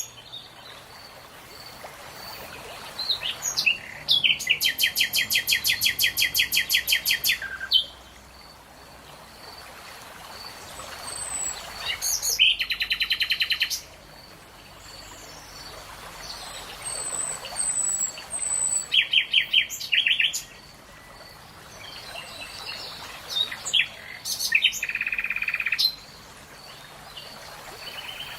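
Songbirds singing: one bird gives loud rapid trills of one to three seconds, four times, with pauses of several seconds between, while a faint high single note repeats about once a second and other birds chirp briefly.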